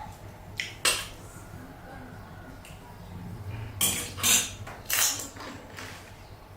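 Eating pani puri close to the microphone, with utensils and dishes in use: a few short, sharp, crisp noises, one about a second in and the loudest cluster about four to five seconds in.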